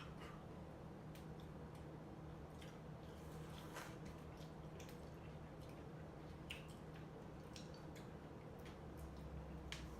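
Faint, wet chewing and mouth sounds: soft squishes and short smacking clicks scattered irregularly, over a low steady room hum.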